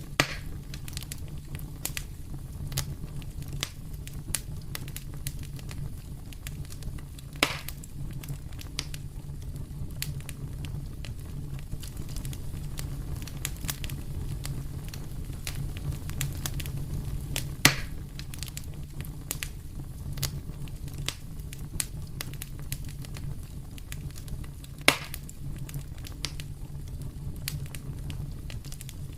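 Wood fire crackling in a fireplace: a steady low rumble of the flames with many small irregular crackles and three louder pops spread through it.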